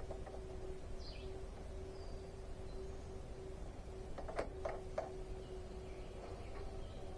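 Quiet background with a steady hum, a few faint bird chirps, and three light clicks or knocks in quick succession a little past the middle.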